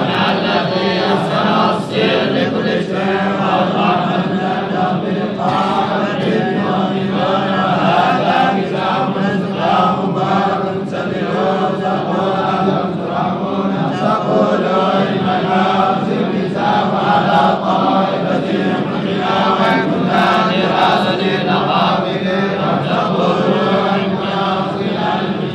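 Quran recitation chanted by a group of men in unison, continuous and unbroken.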